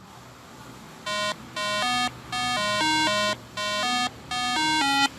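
A short electronic beeping tune in buzzy, square-wave-like tones, played as several quick phrases of changing notes, starting about a second in.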